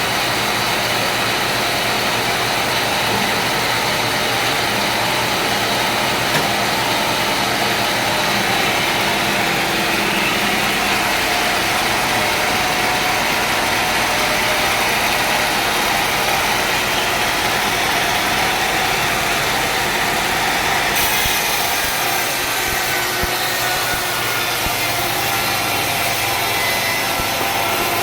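Sawmill machinery running steadily, an engine with a steady hum of tones under it. The sound shifts about three-quarters of the way through.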